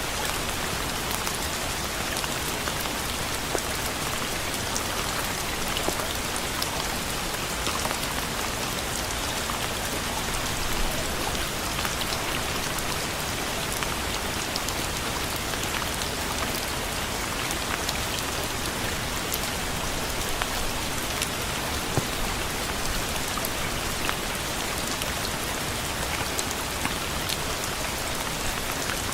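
Steady rain falling on a surface, an even hiss with many individual drop ticks scattered through it.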